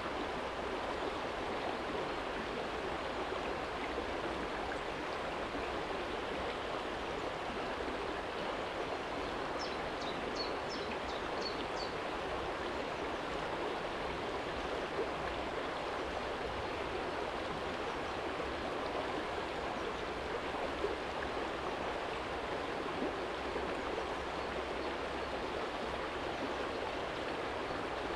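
Small shallow stream flowing and splashing over a stony bed, a steady even rush of water. A short run of high chirps sounds briefly about ten seconds in.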